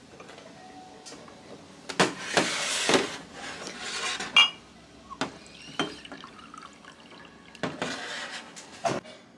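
Liquid poured into a glass in two spells, with sharp clinks and knocks of glass and dishes, one of them ringing briefly.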